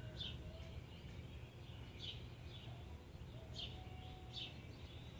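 Birds chirping: short, falling high chirps about once a second, with a few fainter whistled notes in between, over a low steady background rumble.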